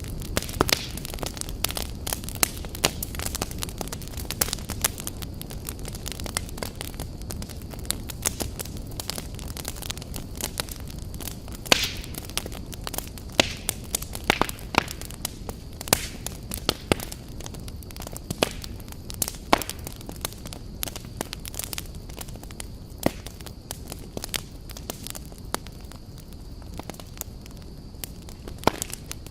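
Fire burning in a fireplace: a steady low rush of flames with frequent sharp, irregular crackles and pops.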